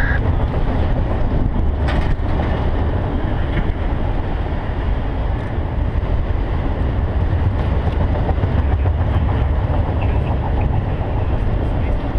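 Freight train of enclosed autorack cars rolling past, a steady low rumble of steel wheels on rail, with a sharp click about two seconds in.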